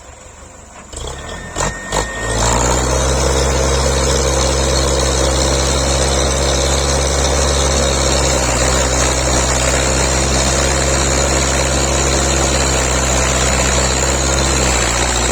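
A few knocks, then about two seconds in a Belarus tractor's diesel engine comes in loud and runs at a steady speed.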